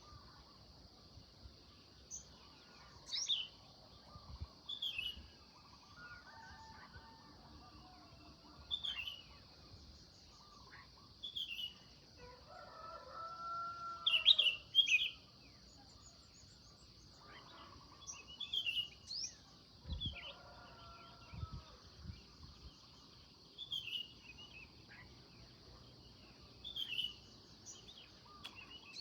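Birds chirping in short, high, falling notes every couple of seconds, over a steady high hiss. About halfway through comes a louder, lower drawn-out call made of several tones, the loudest sound here, with fainter calls like it a few seconds before and after.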